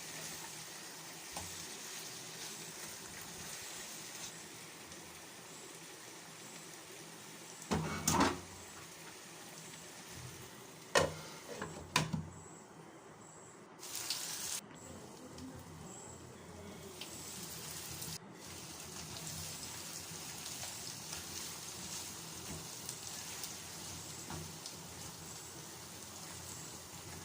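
Chicken pieces sizzling steadily in a pan as they cook in oil and their own released juices, with a few short knocks about 8, 11 and 12 seconds in.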